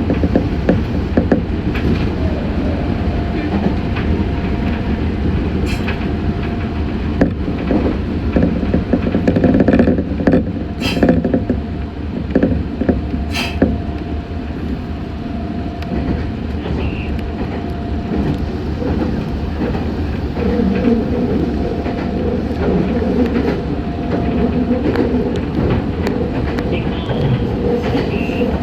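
Meitetsu 6500 series electric train running, heard from inside the car: a steady rumble of wheels on the rails with a steady whine, and a few sharp clacks.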